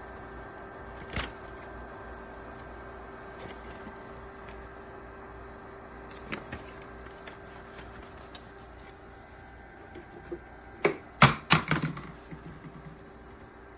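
A steady hum runs under scattered single clicks, then a quick cluster of loud knocks and clatter about eleven seconds in: hard parts being handled and set down.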